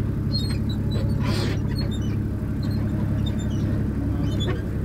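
A motor vehicle's engine running steadily with a low drone, and a brief hiss a little over a second in.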